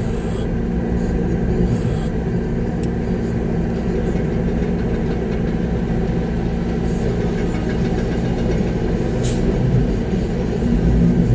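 Concrete mixer truck's diesel engine running steadily, heard from inside the cab during a pour, with a brief hiss about nine seconds in.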